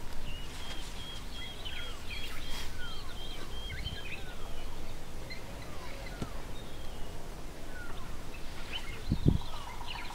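Wild birds calling: a run of about nine short, even high notes at roughly three a second in the first few seconds, with scattered falling whistles throughout. A brief low thump about nine seconds in.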